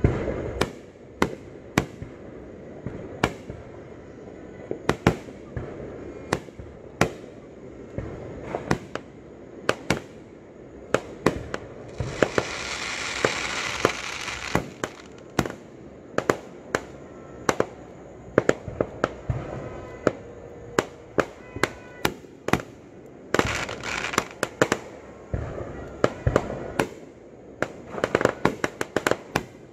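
Aerial fireworks display: a long, irregular run of sharp bangs from bursting shells, often several a second. A dense hissing rush comes about twelve seconds in and again near the end.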